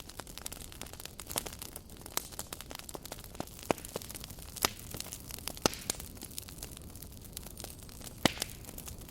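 Campfire burning and crackling, with a steady hiss and frequent sharp pops, a few louder snaps scattered through.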